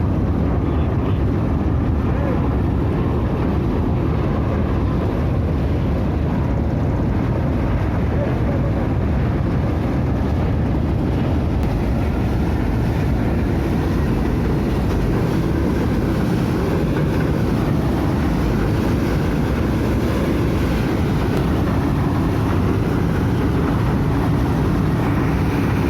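Steady low rumble of a river ferry's engine, unbroken and even in level, with faint voices in the background.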